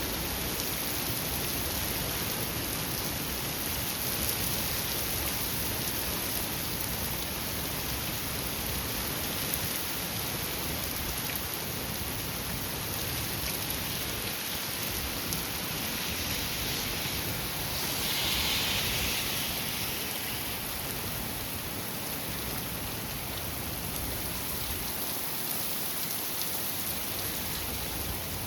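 Heavy thunderstorm rain and gusty wind, a dense steady rush that swells briefly about two-thirds of the way in.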